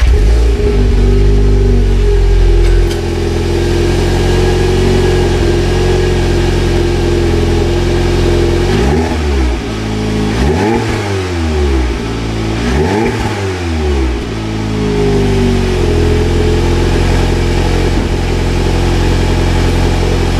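VW Golf R's 2.0-litre turbocharged four-cylinder engine, just started, running through its exhaust with the resonator deleted. It holds a fast cold-start idle that drops after about three seconds. About halfway through it is revved three times briefly, each rev falling back to idle. The exhaust has a bit more of a burble than stock, but it is subtle.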